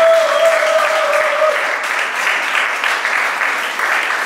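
Audience applauding, with one long held tone, like a cheering voice, over the clapping for the first second and a half.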